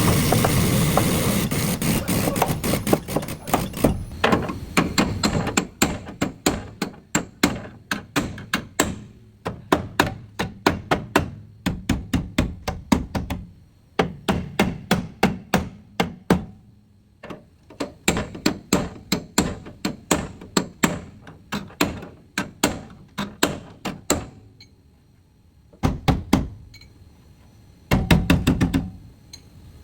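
Hammer blows on sheet-metal car body panels, struck rapidly several times a second in runs, with short pauses between them.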